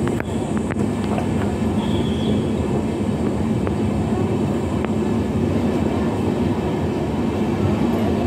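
Coaches of an Indian Railways passenger express running past at speed: a steady rumble of wheels on the rails, with a few light clicks.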